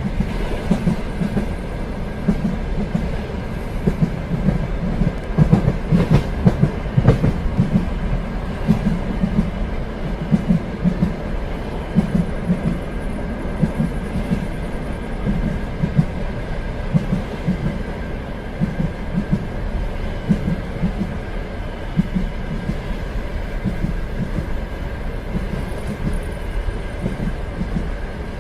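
Train running along the rails: a steady low rumble with the wheels knocking over the rail joints in an uneven rhythm, a faint steady tone above it, and a few sharper clicks about a quarter of the way through.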